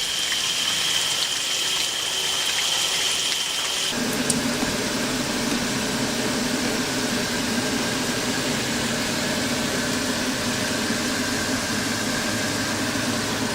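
Water running steadily from an outdoor shower fed by a portable tankless water heater. About four seconds in, the sound changes: a thin high tone stops and a low steady hum joins the rush of water.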